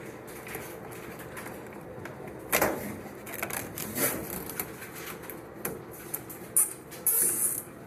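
Scattered knocks and rubbing of hands working on the installation. About seven seconds in comes a short, high rasping zip: a plastic zip tie being pulled tight to bundle the lines together.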